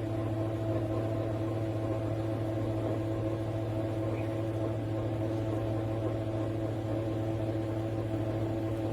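Conair 1875W 3-in-1 hair dryer running: a steady motor-and-fan hum with a low drone, switched on abruptly and holding constant throughout.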